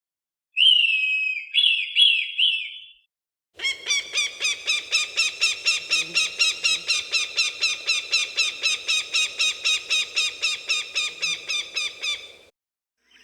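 Falcon calling: a short phrase of a few falling notes, then, after a brief pause, a long rapid series of sharp repeated notes, about four a second, lasting about nine seconds.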